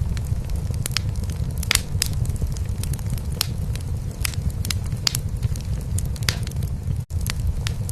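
Cat purring steadily, a continuous low rumble, over a wood fire crackling in a fireplace with irregular sharp pops. The sound cuts out for an instant about seven seconds in.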